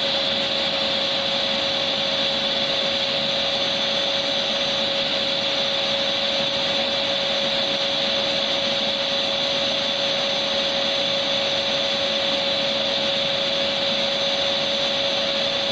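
Vacuum cleaner motor running steadily, a constant rushing hiss with a steady high whine, played as white noise.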